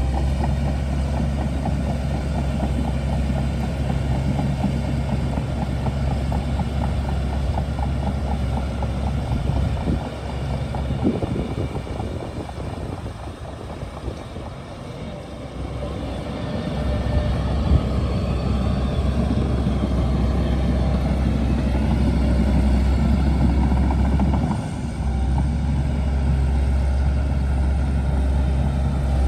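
Shantui DH17C2 bulldozer's diesel engine running steadily, easing off for several seconds around the middle before coming back up to full throttle.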